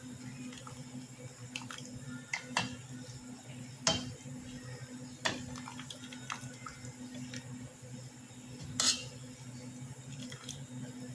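Cutlery clinking against dishes in a string of separate, irregular light clinks over a steady low hum.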